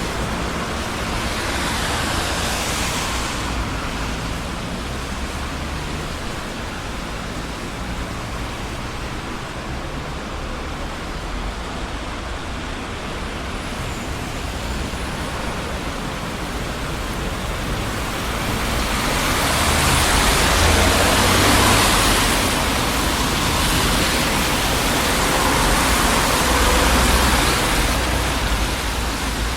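Steady traffic noise on a busy street: the rush of tyres and engines of passing cars, with vehicles swelling past about two-thirds of the way through and again near the end.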